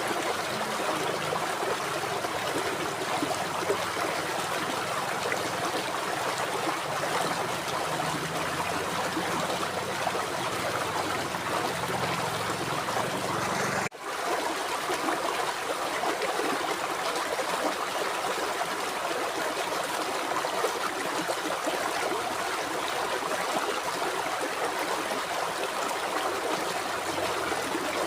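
River water flowing, a steady rushing and babbling with no other sounds. There is a brief dropout about halfway through, after which the flow sounds slightly less deep.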